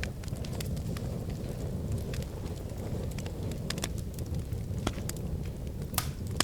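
Wood fire in a fireplace crackling, with a steady low rumble and scattered sharp snaps and pops, one louder pop near the end.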